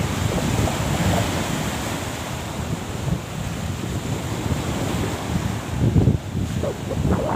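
Wind buffeting the microphone, a steady low rumbling rush, with a few faint higher sounds near the end.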